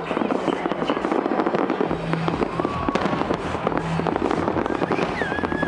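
Fireworks display: aerial shells bursting, with dense, rapid crackling and popping that runs without a break. A low pulsing hum joins about two seconds in.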